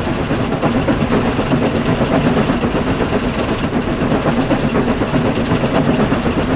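Motorized toy trains running along their track in a race: a loud, steady rattling whir.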